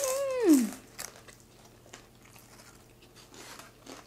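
A brief hum-like voice sound that rises and then falls in pitch, right as a crunchy deep-fried Jack in the Box taco is bitten. After it come scattered small crunches and clicks of the taco shell being chewed.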